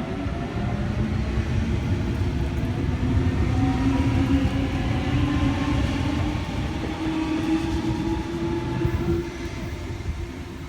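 A Sydney Trains Waratah (A set) electric train pulling away from the platform with a steady low rumble and a traction motor whine rising slowly in pitch as it gathers speed. The sound drops a little near the end.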